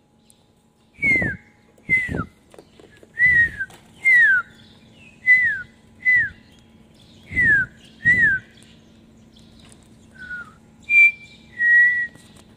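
A series of short whistled notes, about one a second, each sliding down in pitch, ending with two held notes.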